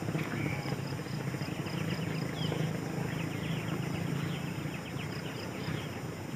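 Forest ambience: insects trilling in rapid repeated ticks and birds giving short chirps over a steady low hum.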